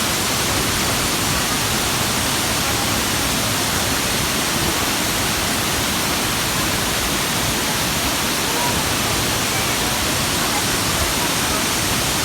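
Steady rush of falling water from Fukuroda Falls, a large multi-tier waterfall, as one even, unbroken noise. Faint voices of people come in near the end.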